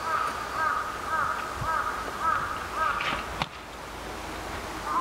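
A bird calling in a rapid series of short, evenly spaced notes, about two a second, which stop about three seconds in. A single sharp click follows soon after.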